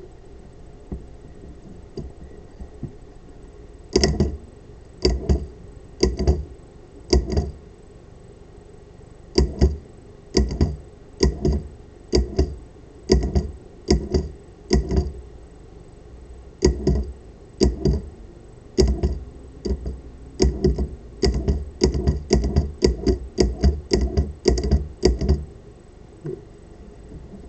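Solenoid of a 3D-printed pulse-propulsion device firing in repeated sharp clacks as its bolt weights strike. It starts a few seconds in at about one pulse a second, speeds up to several a second near the end, then stops.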